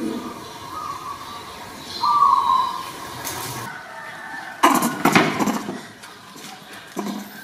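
Short, slightly falling high calls from a young animal, twice, then a loud rustling clatter about five seconds in and a smaller knock near the end.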